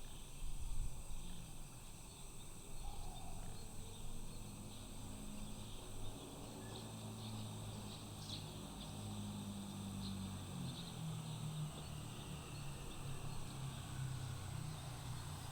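A steady chorus of insects buzzing and trilling high, with a few scattered chirps, over a low hum that shifts slightly in pitch.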